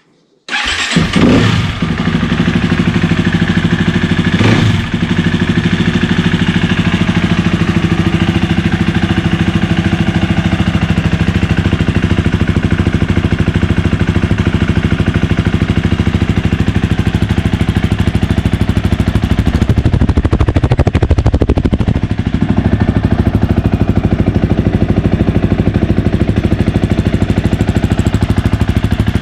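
KTM 250 EXC-F dirt bike's single-cylinder four-stroke engine, breathing through its stock slip-on muffler, starting up about half a second in and then idling steadily while still cold, with a brief change in the engine note around twenty seconds in.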